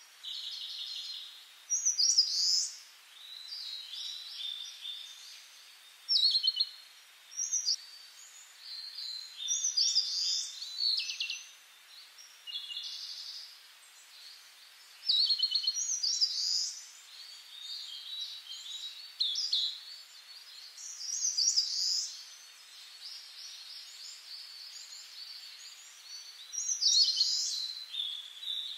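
Songbirds chirping and singing: short phrases of quick high trills and twitters, coming in bursts every few seconds over a faint steady outdoor hiss.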